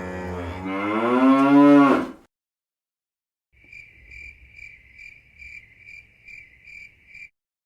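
A cow mooing once, one long low call that rises in pitch and stops about two seconds in. After a short silence, crickets chirping in a steady high pulse, about two to three chirps a second.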